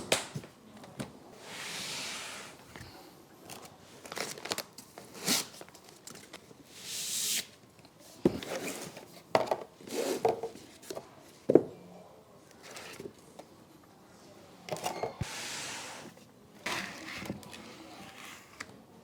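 Packaging being opened and handled: intermittent tearing and crinkling rustles, some lasting about a second, mixed with scattered clicks and knocks.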